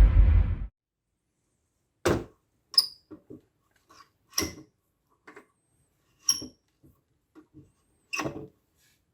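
A loud whooshing intro sound effect dies away in the first second. After it come about ten short, scattered clicks and knocks, some with a brief bright metallic ring: the old rusty electric heater's metal parts and switch being handled.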